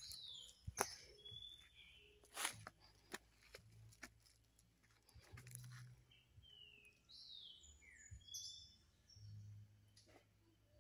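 Faint birdsong: a bird repeating short, falling chirps, in a group near the start and again from about five to eight seconds in. A few sharp clicks sound in the first few seconds.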